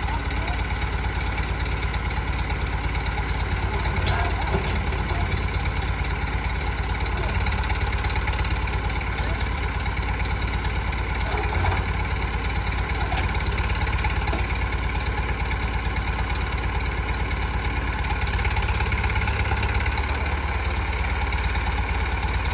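Massey Ferguson 165 tractor engine running steadily.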